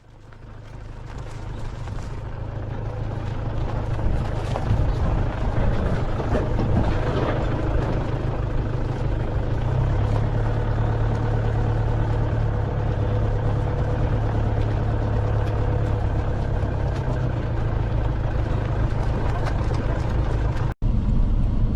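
Car on the move, steady engine and road rumble heard from inside the cabin, fading in at the start and briefly cut out near the end.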